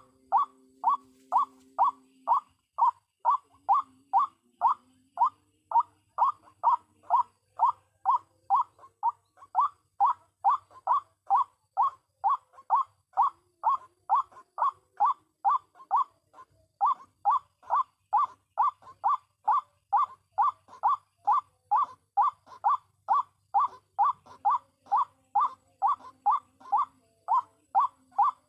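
White-breasted waterhen's croaking 'kruak' call, repeated in an even, unbroken series of about two calls a second.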